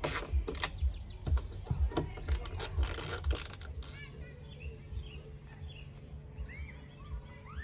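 Irregular rubbing and clicking noises for the first few seconds, then small birds chirping in short calls over a faint steady hum.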